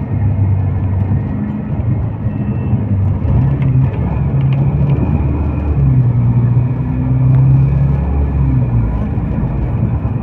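Road vehicle on a highway: a steady low engine drone and rumble, its pitch shifting slightly up and down.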